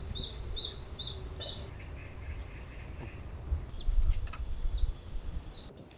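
A bird calling a quick run of short, evenly repeated notes, about two to three a second, for the first two seconds, then a few higher, thinner chirps near the end, over a low uneven rumble.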